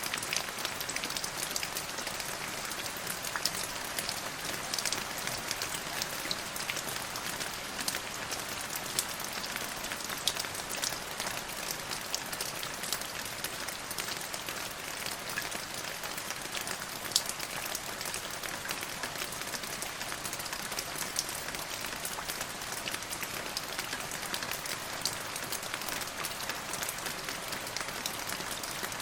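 Steady rain falling, an even hiss studded with many close, sharp drop ticks.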